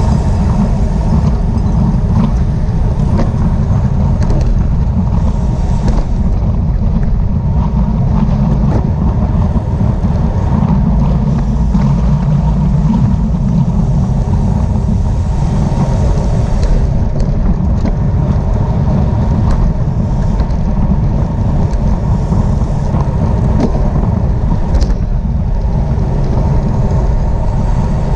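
Steady wind rush buffeting a camera microphone on a moving road bicycle at race speed, with tyre and road noise underneath.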